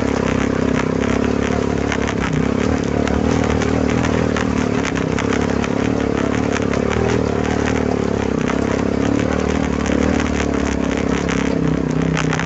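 Quad bike engine running steadily at an even pitch while riding, with rattling and crackling clicks over it.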